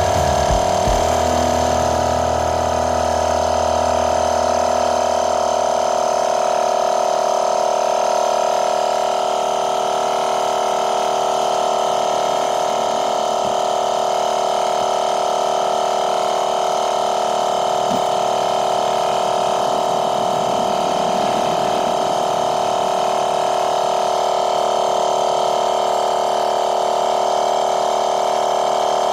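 12 V twin-cylinder portable air compressor running with a steady drone. A lower rumble under it fades away in the first several seconds.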